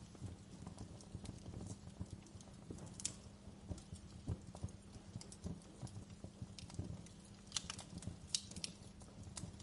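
Wood fire crackling in a fireplace: irregular sharp snaps and pops over a low steady rumble, with a cluster of louder pops about eight seconds in.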